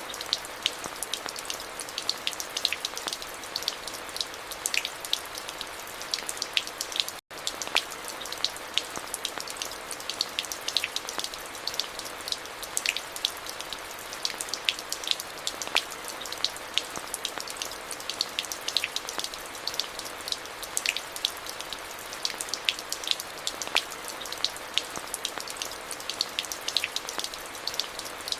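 Steady rain falling, an even hiss with many close individual drops ticking sharply. One split-second dropout to silence comes about seven seconds in.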